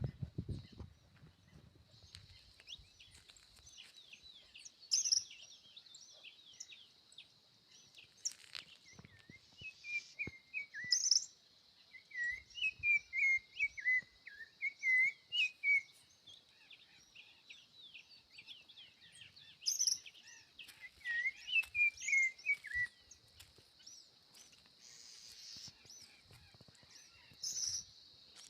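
Birds chirping and singing in repeated warbling phrases, loudest about a third of the way in and again around two-thirds through, over a steady high-pitched hum.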